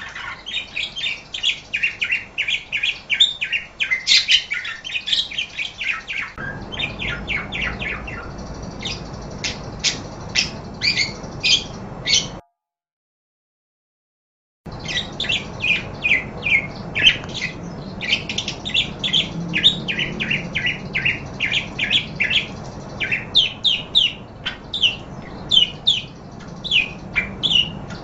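Parakeets chirping and chattering in quick, rapid runs of short high notes. The chirping stops dead for about two seconds near the middle, then starts again.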